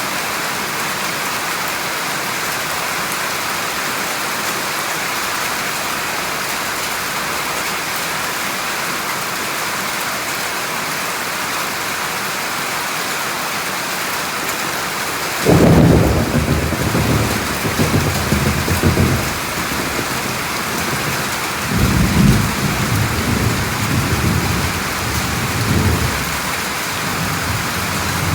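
Steady rain falling, with a peal of thunder breaking in suddenly about halfway through and rumbling on, swelling again twice before fading back under the rain.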